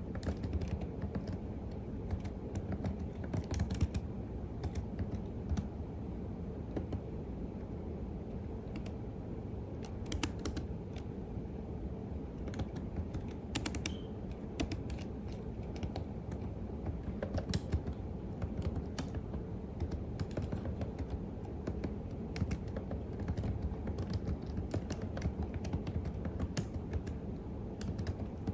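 Computer keyboard typing: a continuous, irregular run of key clicks over a steady low hum.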